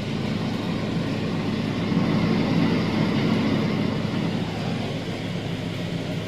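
Steady low rumble with a faint hum, growing louder about two seconds in and easing off again.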